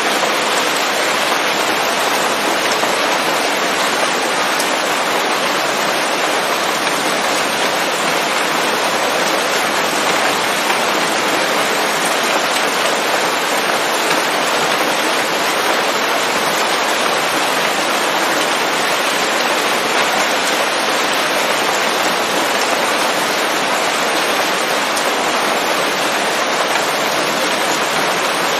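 Steady rain falling on leaves, an even hiss of many drops with no let-up.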